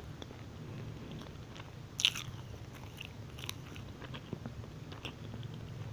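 Close-miked chewing of a soft, moist chocolate chip muffin, with small wet mouth clicks now and then, the clearest about two seconds in.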